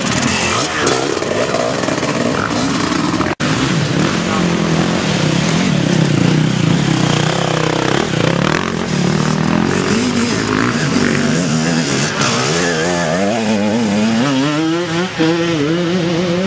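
Off-road dirt bike engine revving hard at close range as the rider works the throttle over rough ground. Near the end the engine note rises and falls quickly.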